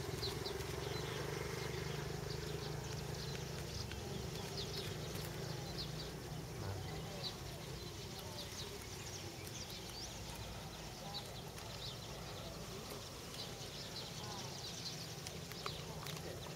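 Many small birds chirping in short, scattered calls over a low, steady hum that fades a few seconds in.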